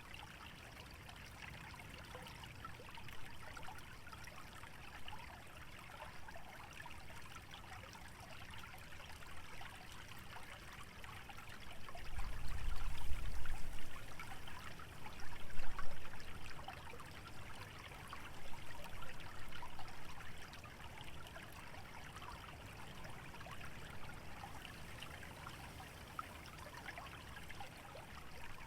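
A shallow stream trickling steadily over a wetland bed, a continuous fine babble of water. A low rumble swells twice about halfway through, the loudest part.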